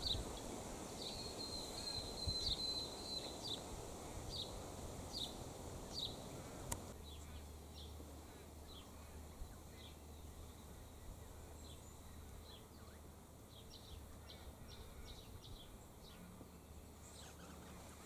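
Small bird giving a series of short high chirps, about one or two a second, with a held high note between about one and three seconds in. A sharp click comes about seven seconds in, after which the chirps continue more faintly.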